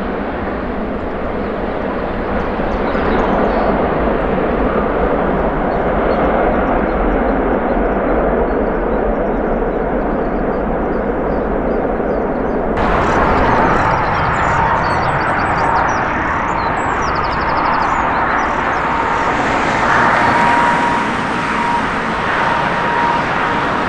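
Jet airliner engines running, a loud steady noise. About thirteen seconds in, the sound changes abruptly to another jet, with a steady high whine over the engine noise.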